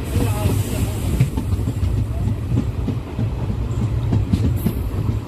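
Local passenger train running at speed, heard from inside the coach: a steady low rumble of wheels on rails with scattered clicks, and a rush of hiss in the first second or so.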